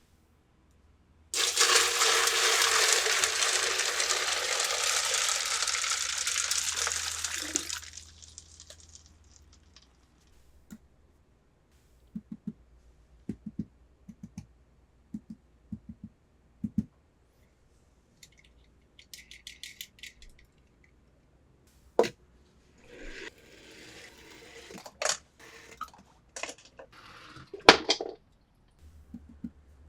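A loud, steady rushing noise starts suddenly and lasts about six seconds before fading. Then come scattered light clicks and taps of small toys being handled, and a stretch of rustling with sharper clicks near the end.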